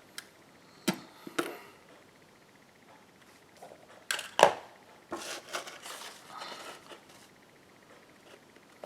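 Craft materials being handled on a tabletop: a few sharp clicks, then a louder double knock about halfway through, then a stretch of rustling.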